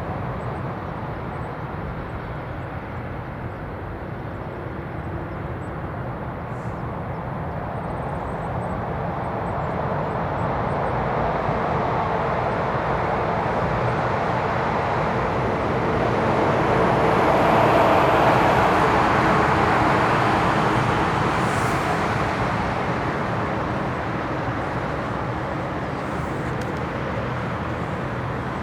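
Jet airliner taking off, its engine noise building slowly to a peak about two-thirds of the way through, with a faint rising whine, then fading away.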